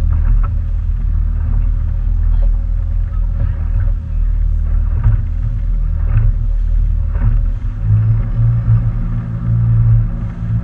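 Motorboat engine running under way, a steady low rumble with a few faint knocks. About three-quarters of the way through, the engine note shifts and grows stronger.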